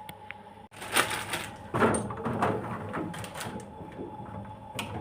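Vaccine vials and trays being handled and taken out of a vaccine fridge, making irregular clatters and knocks.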